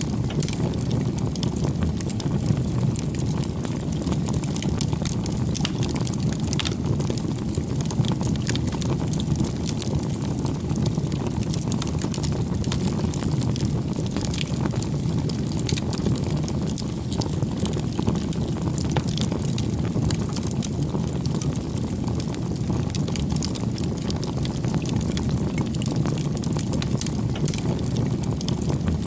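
Wood fire burning, with a steady low rush of flame and frequent small crackles and pops from the burning wood.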